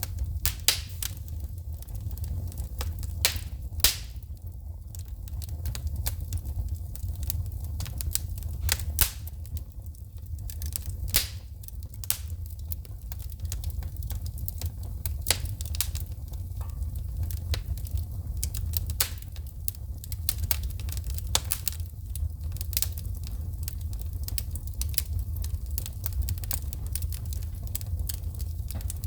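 Wood fire burning in a fireplace, with irregular sharp crackles and pops as sparks shoot, over a steady low rumble.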